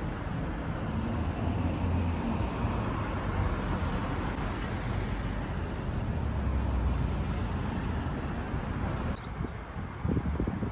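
Steady road traffic noise with low rumbles of vehicles passing, swelling about a second and a half in and again around six seconds. Near the end the traffic noise drops away and wind buffets the microphone.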